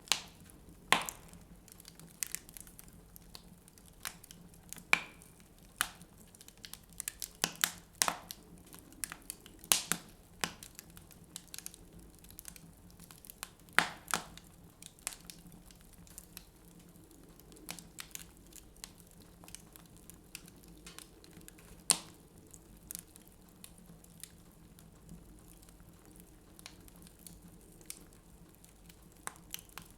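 Wood fire in a fireplace crackling, with irregular sharp pops that come thick in the first half and thin out later.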